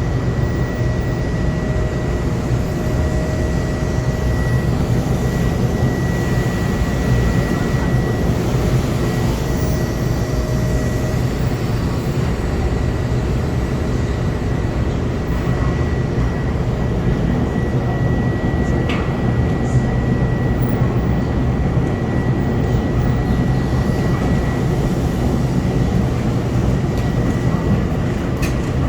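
Sydney electric suburban train running, a steady low rumble with a thin, steady high-pitched tone over it.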